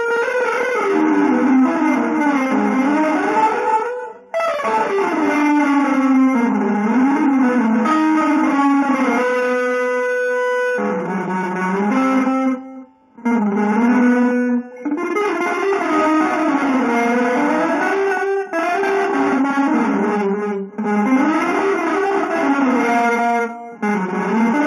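Guitar playing fast, winding single-note melodic runs in an avant-garde jazz vein. The runs break off briefly about four and thirteen seconds in, and a chord is held for about a second around ten seconds in.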